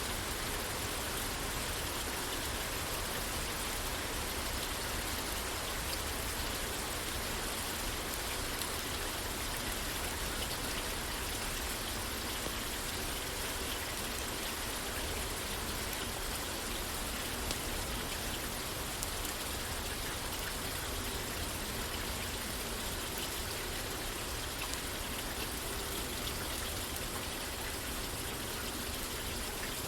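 Steady rain falling on a roof, an even hiss with faint scattered drop ticks.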